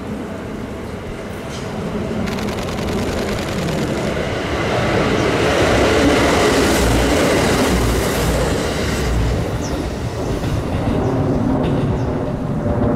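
Kintetsu 2410 series two-car electric train approaching and running past close by. It grows louder to its loudest about six seconds in, then fades as it moves away.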